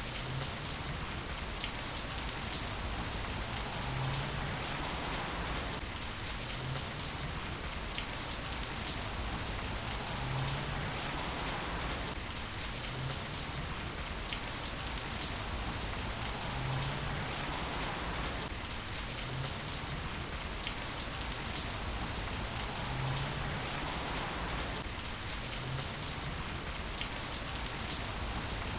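Heavy rain falling steadily, with the sharp taps of individual drops hitting surfaces throughout.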